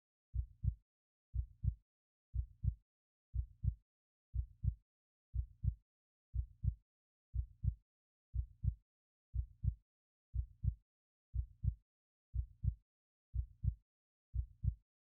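Slow, steady heartbeat: a low double lub-dub thump about once a second, evenly repeated, as if heard with an ear against the chest.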